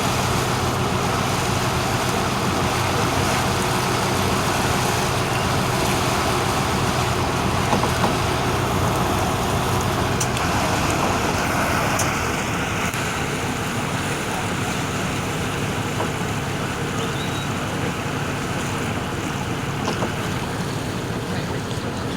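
Motorboat underway: the engine's steady low hum under the rush of water and wind. About halfway through the engine hum fades and the water and wind noise carries on.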